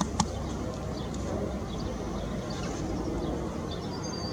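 Garden birds calling in scattered short, high chirps over a steady low rumble, with two sharp clicks right at the start.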